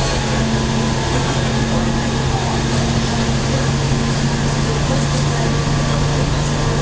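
Running noise inside the carriage of a JR West Hokuriku Line local train under way: a steady rumble with a low, even hum.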